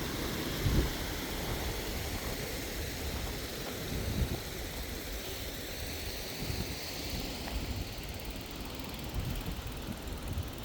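Outdoor background noise: a steady low rumble and hiss, with irregular low buffeting and a couple of brief knocks, one just under a second in and one about four seconds in.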